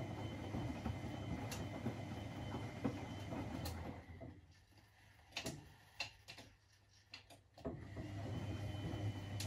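Privileg 3001 S washing machine with a three-speed gear motor running, its drum motor stopping about four seconds in, a few sharp clicks, then the motor starting up again and running on with a steady hum.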